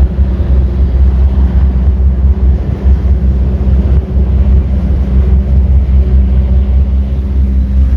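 Sea Ray 260 Sundeck's 300 hp Mercury engine running steadily while the boat cruises, mixed with a heavy low rumble of wind on the microphone.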